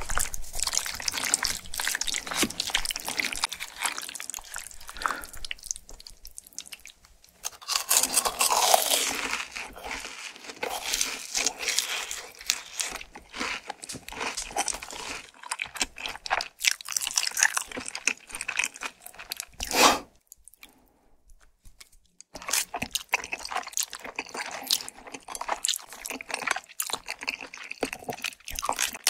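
Close-miked eating sounds: wet, sticky chewing and slurping of spicy tteokbokki with fish cake and Chinese glass noodles in sauce. The eating pauses briefly about two-thirds of the way through.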